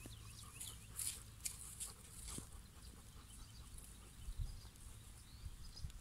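Faint bird chirps, a quick run of short descending notes in the first second or so, over low wind rumble on the microphone, with a few soft clicks and rustles.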